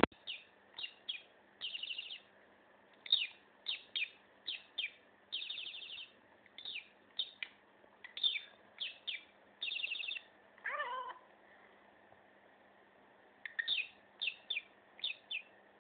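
Budgerigar chattering: a rapid run of short, high chirps mixed with buzzy warbles. About eleven seconds in comes one lower, wavering call, then a pause of about two seconds before the chirps start again.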